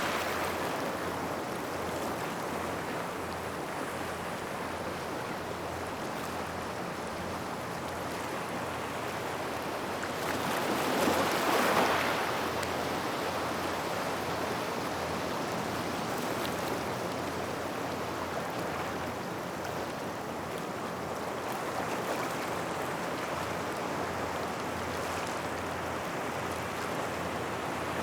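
Waves washing onto a gravel shoreline near rocks: a steady rushing wash, with one louder wave surging in about eleven seconds in.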